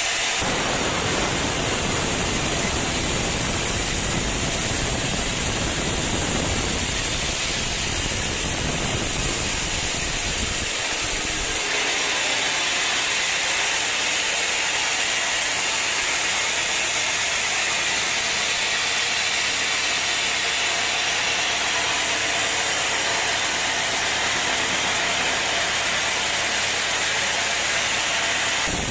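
Sawmill machinery running: a steady mechanical drone under loud, dense hissing noise, with no distinct strokes. The sound changes abruptly about twelve seconds in, the low end dropping away and the hiss growing stronger.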